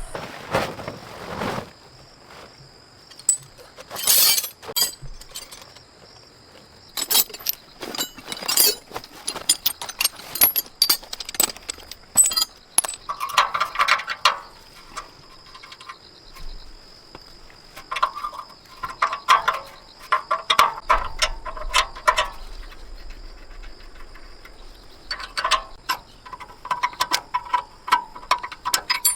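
Irregular metallic clinks, knocks and scraping of hand tools working on metal parts, in uneven clusters of sharp strikes, some ringing briefly, over a steady faint high tone.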